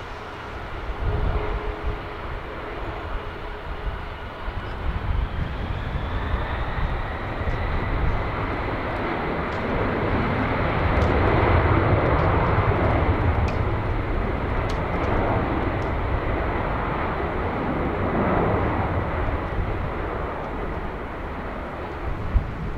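Boeing 767-300ER twin jet engines under high thrust. A whine rises in pitch over the first several seconds, then loud broad engine noise peaks about halfway through and slowly eases, as on a takeoff roll going past.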